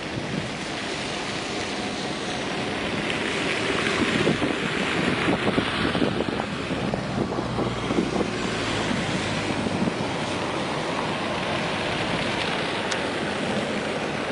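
A freight train passing at a distance, a steady rumbling rush that builds about three seconds in and eases off in the second half, mixed with wind buffeting the microphone.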